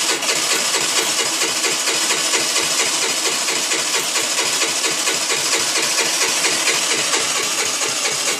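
Baotian Tanco scooter's 50cc single-cylinder four-stroke engine running steadily with an even, rapid beat, finally going after a long hard start.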